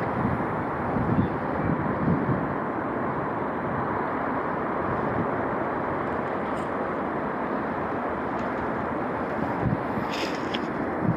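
Wind blowing across the microphone: a steady rushing noise with a few soft low buffets.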